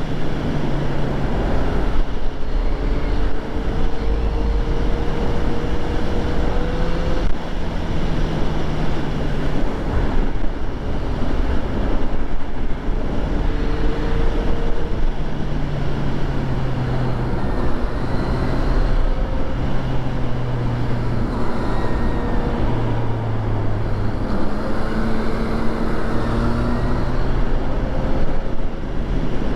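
2014 Yamaha FZ-09's inline three-cylinder engine running on the road, its pitch holding, climbing and dropping in steps as the revs change, over a heavy low rush of wind and road noise.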